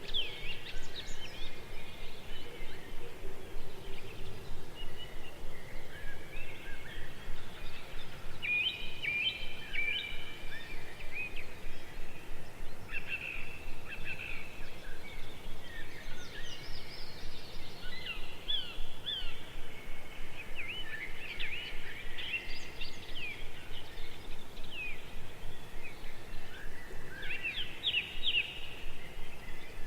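Birds chirping and twittering, many short rising and falling calls overlapping one another, over a soft outdoor background hiss.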